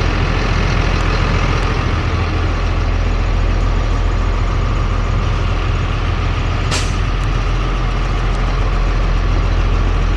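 A CAT C7 inline-six diesel in a 2004 Freightliner M2 box truck idling steadily, heard from inside the cab. A short, sharp sound comes about seven seconds in.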